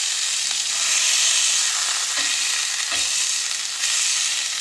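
Pork sausage patties sizzling steadily in a cast iron pan, with a couple of faint knocks about two and three seconds in.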